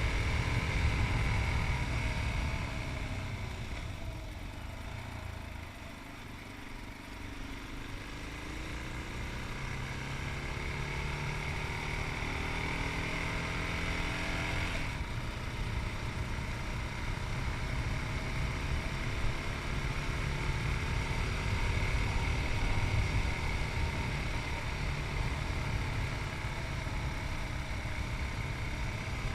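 Yamaha MT-03's 660cc single-cylinder engine under way. It eases off for a few seconds, then climbs in pitch as it accelerates, and a gear change cuts the climb off about halfway through. After the shift it settles into a steady cruise.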